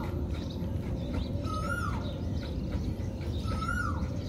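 Bird calling twice, about two seconds apart: each call is a short chirp that rises slightly and then drops sharply, over a steady low hum.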